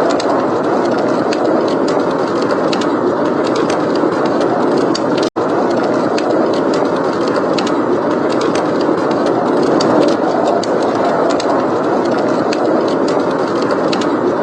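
Blizzard wind blowing steadily, with a fireplace crackling over it in a scatter of small sharp pops. The sound cuts out for a split second about five seconds in.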